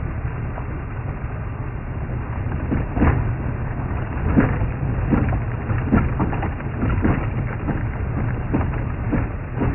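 Open safari vehicle driving on a rough track: a steady low engine and road rumble with irregular knocks and rattles about once or twice a second. The sound is narrow and muffled, as through a low-quality stream feed.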